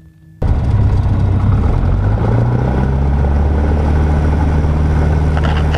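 Cessna 150's four-cylinder Continental O-200 engine and propeller cutting in suddenly about half a second in and then running loud and steady at high power, with the pitch rising slightly about two seconds in as power comes up for the takeoff roll from a grass strip.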